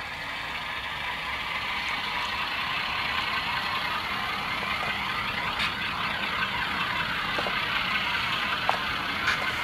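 Atlas C424 model locomotive's SoundTraxx Tsunami sound decoder playing diesel engine sound through its small speaker, slowly getting louder, with a few small clicks from the model's mechanism near the end.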